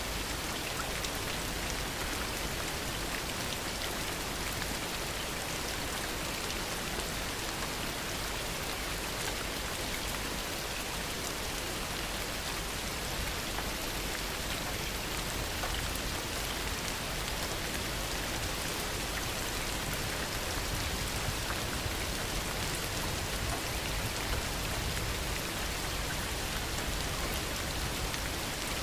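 Steady heavy rain falling, an even hiss with many small drop ticks and no thunderclap.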